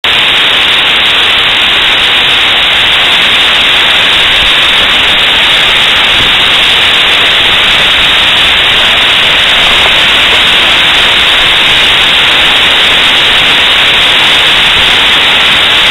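Steady, loud rushing of water from a nearby waterfall, an even hiss with no change that starts abruptly.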